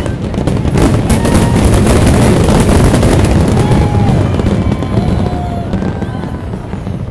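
A dense fireworks barrage: rapid crackling and booms running together without a break, easing off in the last couple of seconds. A few faint whistles glide up and down through it.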